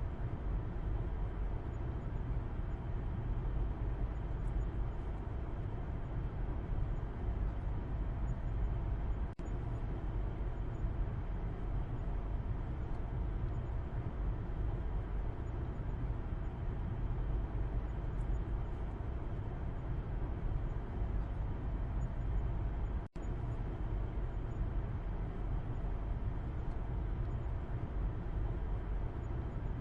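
Steady car interior noise from the back seat of a moving car: a low road and engine rumble with tyre hiss. It cuts out for an instant twice, about nine and twenty-three seconds in.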